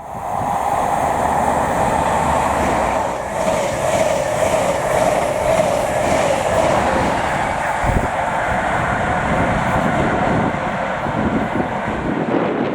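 A train passing along the line at the station: a steady, loud mix of rumble and rail noise.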